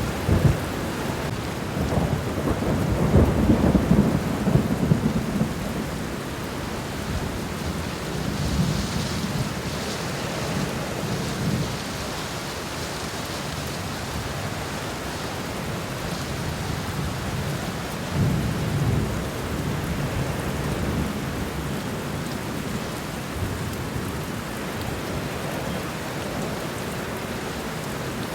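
Steady rain falling on a garden floor, a continuous even hiss. Low rumbles swell underneath it a few times, loudest a couple of seconds in and again past the middle.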